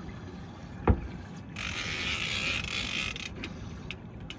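Working sounds on a fishing boat's deck during a shark fight: a sharp knock about a second in, then a hiss lasting about a second and a half, with a few light clicks over the steady noise of the boat at sea.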